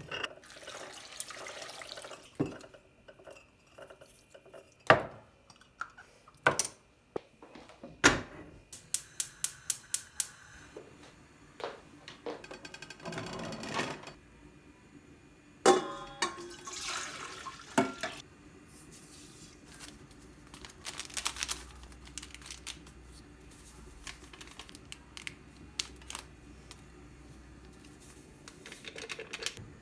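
Kitchen handling sounds: dishes, pans and utensils clinking and knocking at irregular intervals, with a quick run of light ticks about eight seconds in and brief rushes of noise between them.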